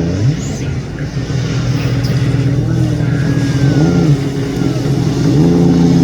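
Jet ski engine running steadily, with a few short throttle blips that briefly raise and drop its pitch.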